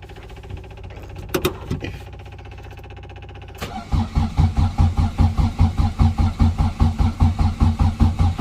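A few light clicks over a low hum, then about three and a half seconds in the starter motor cranks the classic Mini's 1380 A-series engine from cold, a regular chug of about five compression pulses a second without the engine catching.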